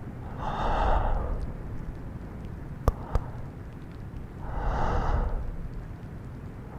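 Two long, breathy exhales close to the microphone, about four seconds apart, with a couple of sharp mouth clicks between them, over steady rain ambience.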